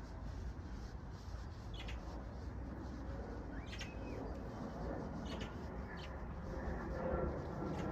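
Birds calling with a handful of short, separate chirps over a steady low background rumble.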